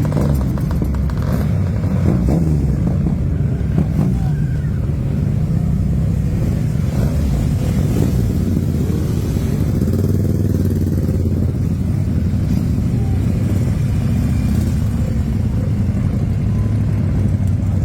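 A line of motorcycles riding slowly past, several engines running at once with their pitch rising and falling as they go by.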